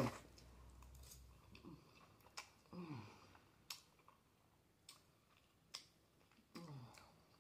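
Close-up mouth sounds of a person eating noodles: a slurp right at the start, then quiet chewing with scattered wet clicks and smacks of the lips and tongue. Three times a short low hum, falling in pitch, sounds through the closed mouth.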